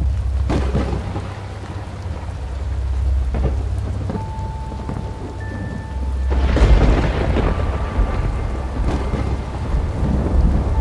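Heavy rain falling with low rolling thunder and a few sharp cracks. A louder burst of thunder comes a little past the middle.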